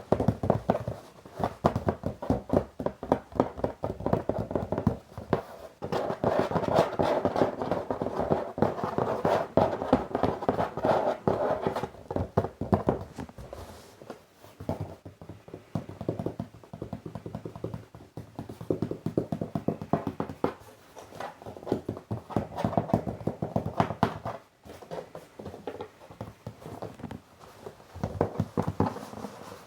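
Fingers tapping and scratching on a box: rapid, uneven taps, many a second, with a hollow ring from the box. The taps come thickest and loudest for several seconds near the middle.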